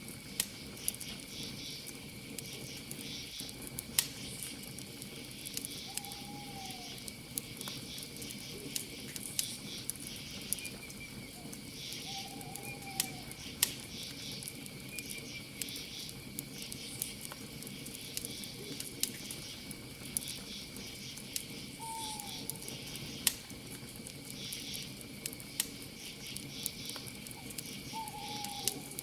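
Campfire crackling with occasional sharp pops, over a steady insect trill and pulsed cricket chirping. An owl hoots four times, a short falling note every six seconds or so.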